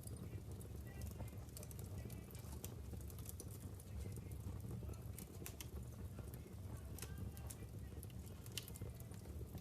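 Wood fire burning in a fireplace, logs crackling with irregular sharp pops and snaps over a low, steady rumble of the flames.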